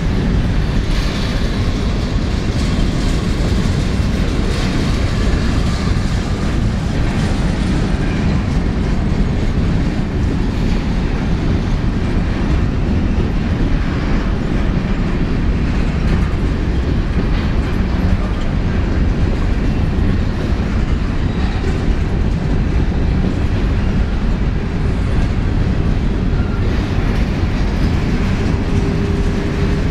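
Covered hopper cars of a grain train rolling past close by: a steady rumble of steel wheels on rails with a running clatter of wheel clicks.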